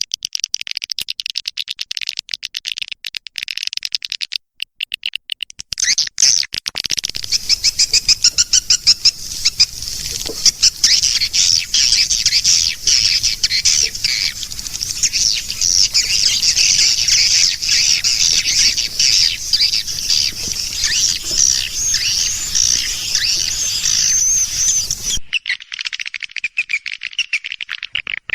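Swiftlet lure-call recording: rapid, high-pitched twittering of edible-nest swiftlets. It is sparse at first and thickens into a dense chorus about six seconds in, with a faint low hum underneath. The chorus cuts off abruptly a few seconds before the end, and then the chirping starts again.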